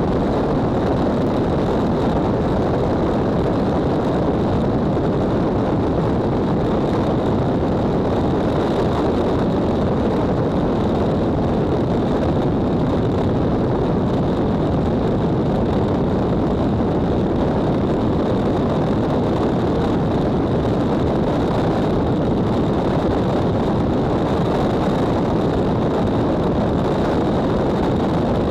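Steady vehicle running noise at constant speed: a dense, unchanging rumble with a faint thin high tone above it.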